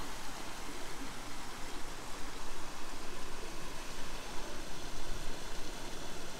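A small woodland stream running over rocks, a steady rushing of water.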